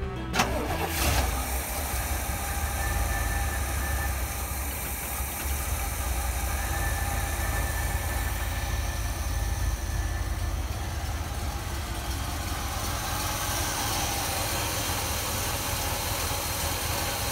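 1976 Cadillac Fleetwood Brougham's 500 cubic-inch V8 catching with a sharp knock about half a second in, then idling steadily on a cold morning start while it warms up.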